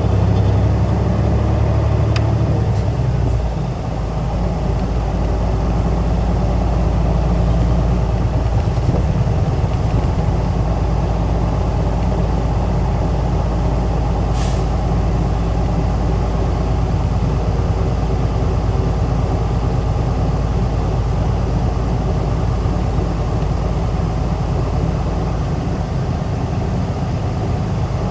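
Isuzu Erga city bus (PJ-KV234L1) heard from inside: the diesel engine and drivetrain running steadily, the engine note changing a few seconds in. A short hiss comes about halfway through.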